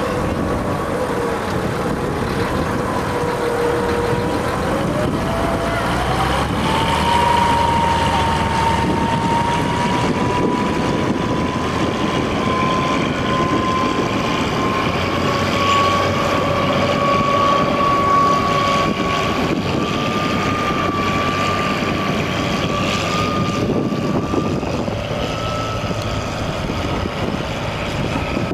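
Ferry boat's engine running under a steady rush of noise, its whine rising in pitch about five to seven seconds in as it speeds up, then holding steady and creeping slightly higher.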